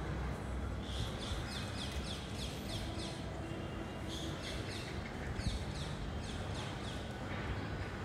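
A bird calling in a quick series of high, falling whistled notes, about four a second, in two runs, over a steady background hiss.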